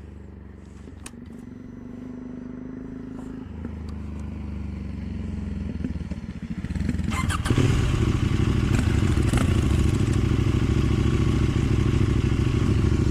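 KTM 790 Duke's parallel-twin engine running steadily and growing louder, then jumping to a much louder, fuller note about seven and a half seconds in that holds steady.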